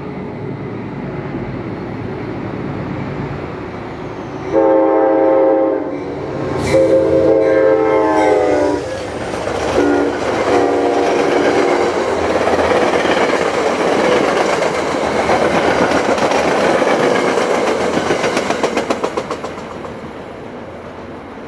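Metro-North passenger train sounding its air horn as it approaches, four blasts in a long, long, short, long pattern beginning about four seconds in. It then passes close by at speed with a steady wheel-on-rail clatter, a quick rhythmic clicking near the end as the last cars go by, and fades away.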